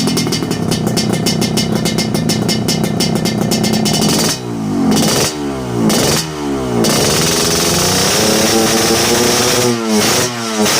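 Motorcycle with an underbelly mild-steel exhaust idling, then revved in three sharp throttle blips that fall back each time, and blipped again in quick succession near the end.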